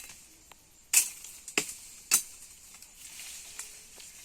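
Dry sticks and brush crackling, with three sharp snaps about half a second apart and a few fainter ticks.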